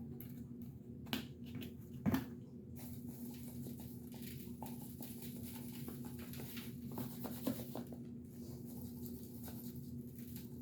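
Hands rubbing a dry seasoning rub into the skin of a raw turkey: a soft, steady rustling, after two sharp knocks in the first couple of seconds. A steady low hum runs underneath.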